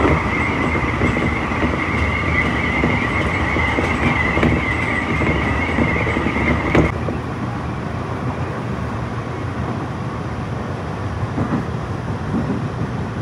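Tobu 30000 series electric train running at speed, heard from inside the carriage: steady rolling and rumbling noise of wheels on rails. A steady high whine runs over it and stops with a click about seven seconds in, after which the running noise is a little quieter.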